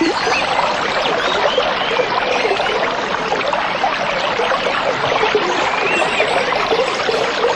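Shallow stream running steadily, water babbling and gurgling over stones.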